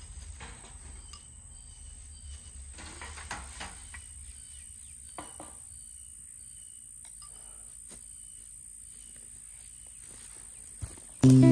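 Insects chirring: a steady high-pitched drone, with a few faint scattered clicks. Strummed acoustic guitar music comes in loudly at the very end.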